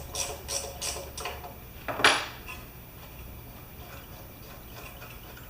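Small metal clicks and clinks as a wrench works the carburetor's float bowl loose on a Champion 3000-watt generator engine: a quick run of clicks about three a second, then a single louder clink about two seconds in, then only faint ticks.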